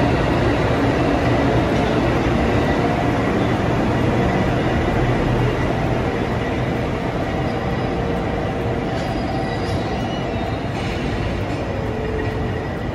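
A train running on the track: a steady rumble with faint level whining tones on top, easing off slightly in the second half.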